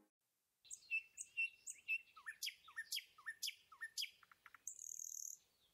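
Small birds chirping: a run of short, quick chirps about two a second, then a brief, higher, buzzy trill near the end.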